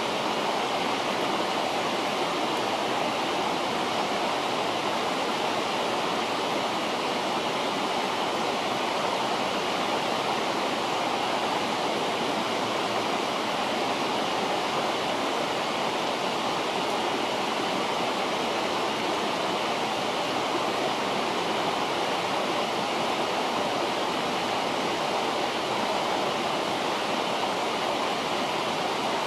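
A river's flowing water rushing in an even, unbroken hiss.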